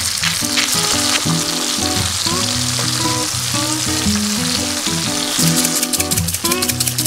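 Shrimp and sliced garlic sizzling in hot olive oil in a frying pan, a steady frying hiss, over background music; a fast rattling rhythm comes into the music about five seconds in.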